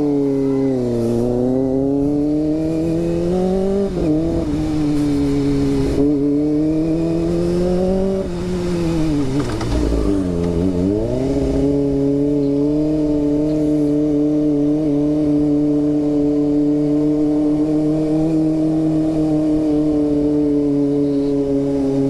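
Kawasaki ZX-25R's 250 cc inline-four engine under way, its pitch rising and falling with throttle and gear changes in the first half and dropping sharply about ten seconds in. It then holds a steady high note for the rest.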